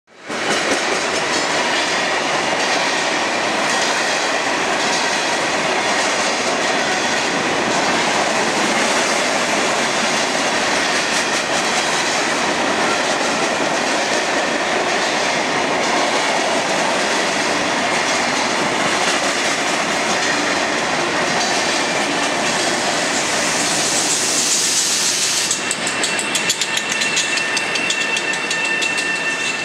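Diesel-hauled freight train of ballast hopper cars passing close by: a steady wheel and rail rumble with a regular clickety-clack of wheels over the rail joints. Near the end an electric commuter train comes alongside, adding a steady high whine.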